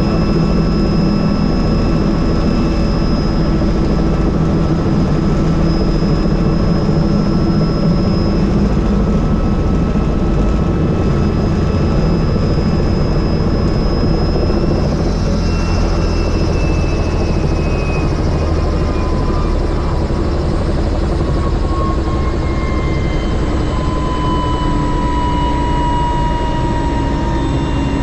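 Helicopter turbine whine and rotor noise, loud and steady. In the second half several whine tones glide slowly down in pitch.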